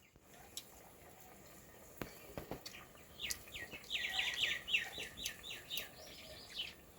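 A bird calling: a rapid run of short, high, downward-slurred chirps, about four a second, starting about three seconds in and lasting some three and a half seconds. A few sharp clicks come just before it.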